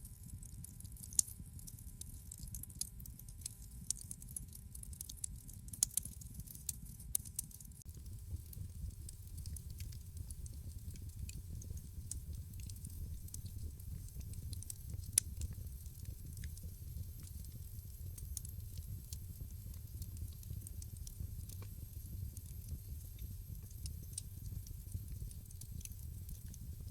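Wood fire crackling in a fireplace: a steady stream of small crackles, thickest in the first few seconds, with a few sharper pops, over a low rumble from the flames.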